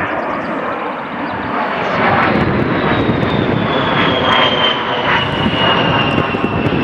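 A-10's twin turbofan jet engines running loud as the aircraft passes, the roar swelling about two seconds in, with a high whine sliding slowly down in pitch.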